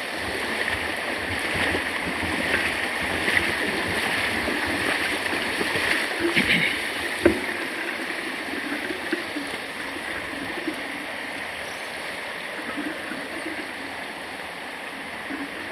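River water rushing over rocks at a waterfall, a steady, even noise, with a sharp knock about seven seconds in.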